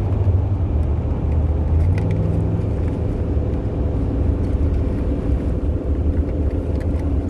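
Steady low road rumble of a car driving, heard from inside the cabin, with a few faint light clicks over it.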